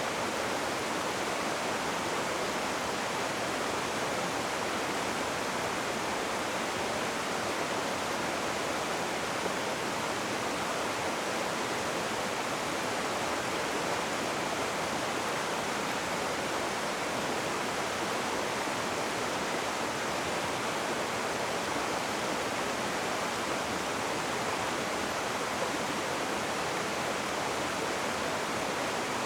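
Rushing river water: a steady, even roar of fast-flowing water with no breaks or changes.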